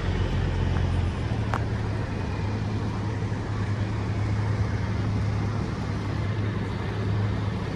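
A large engine running steadily at idle, its low hum shifting slightly about a second in.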